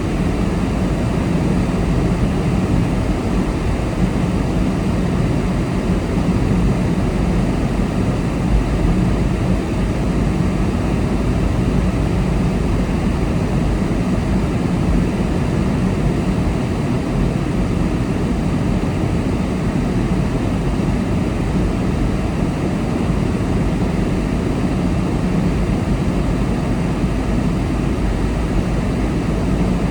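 Steady road noise of a car being driven at speed: tyre and engine noise that stays even throughout.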